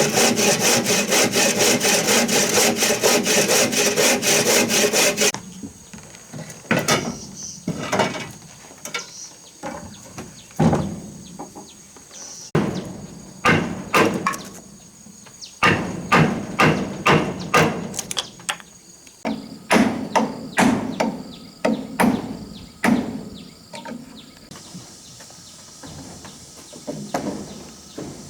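Saw cutting through wood with quick, even strokes that stop about five seconds in. A series of separate knocks on wood follows, sometimes single and sometimes in quick runs of several strikes.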